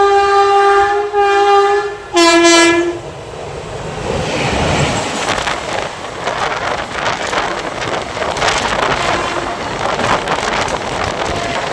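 Electric multiple unit local train's horn blowing a long, loud blast with a brief break, then a shorter, lower-pitched blast. After that comes the rolling noise of the train running through, its wheels clattering over the rail joints.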